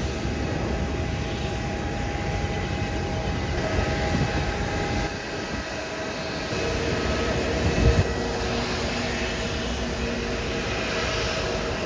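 Airbus A321neo jet engines running with a steady whine over a low rumble, a new whine tone joining about halfway through. Two brief low thumps come about a third of the way in and again about two-thirds of the way in.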